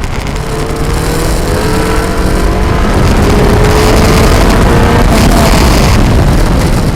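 Exocet kit car's engine at full throttle on an autocross course, rising steadily in pitch under hard acceleration, with heavy wind noise on the microphone.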